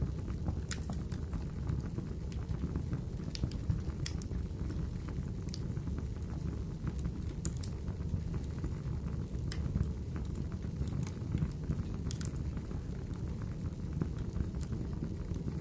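Wood fire crackling, with scattered sharp pops, over a steady rush of rainfall.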